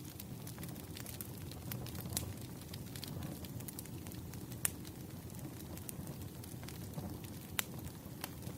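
Bonfire burning: a steady low rush of flames with scattered sharp crackles and pops from the wood, two of them louder about halfway through and near the end.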